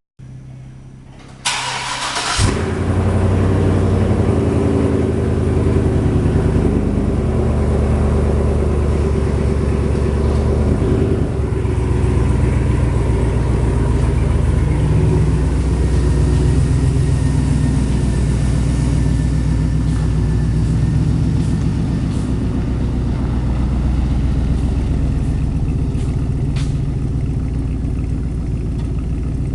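A vehicle engine cranks over for about a second and catches, then runs steadily at a low, even pitch.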